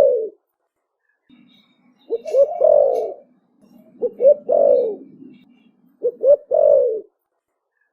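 Young spotted dove cooing in the deep 'thổ bầu' voice. It gives three phrases about two seconds apart, each two short notes followed by a longer falling note.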